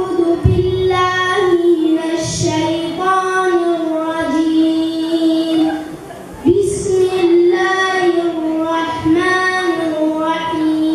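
A young child's voice reciting the Quran in a melodic chant, holding long, high notes with a short breath pause about six seconds in.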